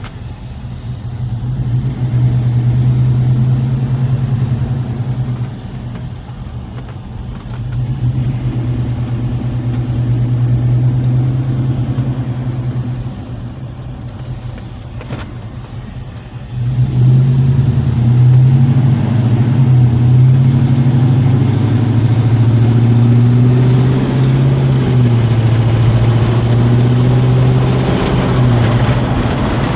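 The 6.2-litre Vortec V8 of a 1958 Chevrolet Cameo restomod pickup, running. Its note swells and eases twice, then from about halfway through it runs louder with a wavering, revving pitch.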